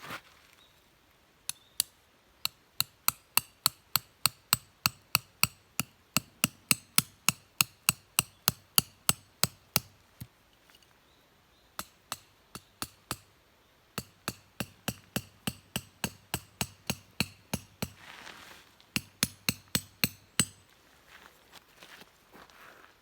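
Tent pegs being hammered into the ground: sharp, ringing strikes at about three a second in several runs, with short pauses as each peg is finished, and a quicker flurry near the end.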